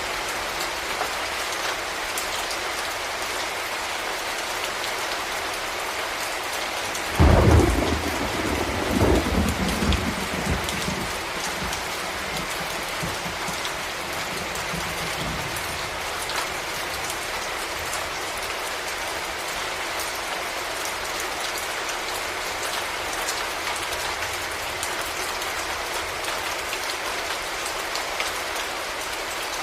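Steady heavy rain with a loud thunderclap about seven seconds in, which rumbles on for several seconds before fading back under the rain.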